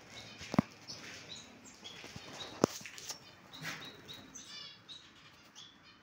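Small cage birds chirping with short, high tweets, over two sharp knocks about half a second and two and a half seconds in.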